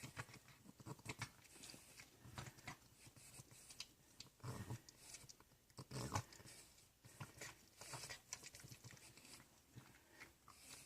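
Dog chewing a Dentabones dental chew treat: faint, irregular crunches and smacking bites.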